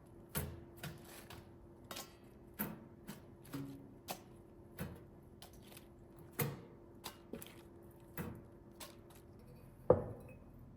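Irregular light knocks and clicks of kitchen items being handled and set down, about two a second, with one louder knock near the end, over a faint steady hum.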